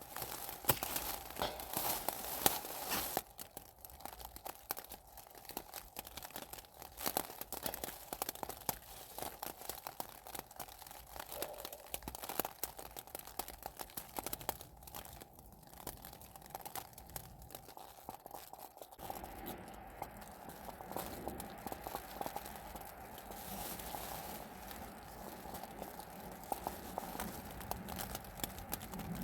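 Dense, irregular crunching and crackling close to the microphone, busiest in the first few seconds, over a faint steady tone.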